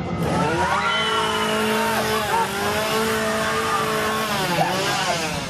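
Two-stroke chainsaw engine revving up and held at high revs, dipping briefly twice.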